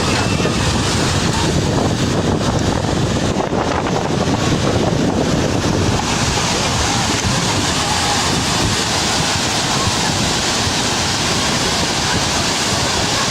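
Loud, steady rushing of wind and water, with wind buffeting the microphone. The sound turns brighter and hissier about six seconds in.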